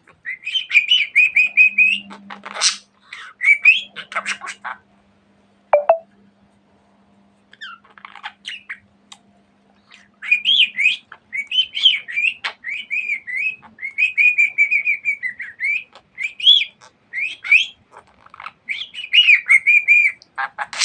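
Pet budgerigar warbling and chattering in runs of wavering chirps mixed with sharp clicks, with a lull of several seconds in the middle. A faint low hum sits underneath during the first half.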